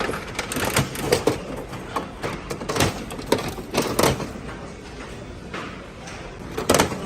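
A run of irregular sharp knocks and clatter, about a dozen over several seconds, with the loudest knocks near the end.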